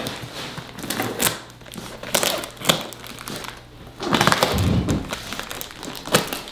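Box packaging being pulled apart: cardboard and styrofoam crinkling and scraping, with scattered knocks and a louder rustling stretch about four seconds in.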